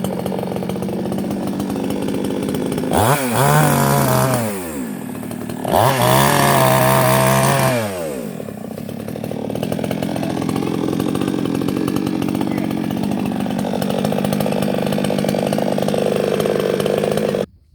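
Small two-stroke engine of a handheld power tool, revved up and back down twice in the first half, then running steadily before it cuts off suddenly near the end.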